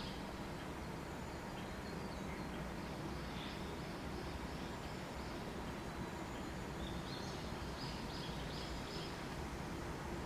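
Higurashi (evening cicadas) calling in repeated high chirping series, a few seconds apart, over a steady low background rush.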